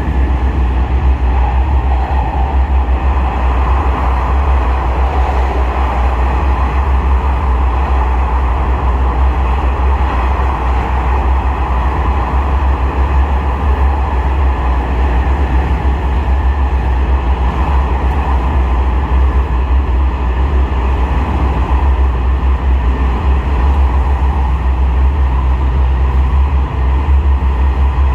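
Aizu Railway AT-751 diesel railcar running steadily along the line: a constant low drone with wheel and rail noise.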